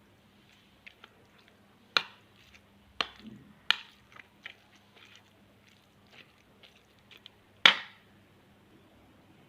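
Koi fish bhorta being mashed and mixed in a dish: soft squishing broken by a few sharp clinks and knocks against the dish, the loudest near the end.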